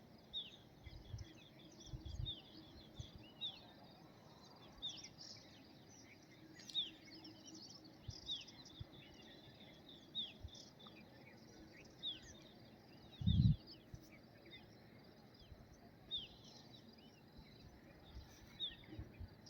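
Birds chirping outdoors: one bird repeats a short, sharp falling call about once a second while other small birds chirp higher and faster around it. Low muffled thumps, like wind or handling on the microphone, come near the start and, loudest, about 13 seconds in.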